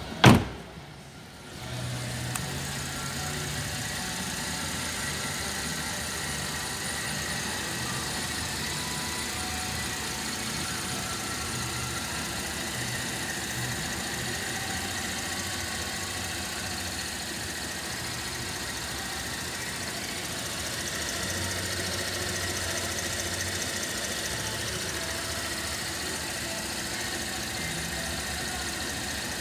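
Holden Commodore 3.6-litre V6 engine, a low-mileage unit of 34,600 km, idling steadily. Near the start there is a single loud thump, after which the idle sets in about two seconds in.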